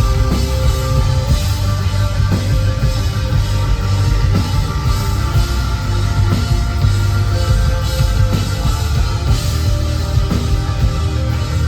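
Rock band playing live, with drum kit, guitar and heavy bass, loud and continuous.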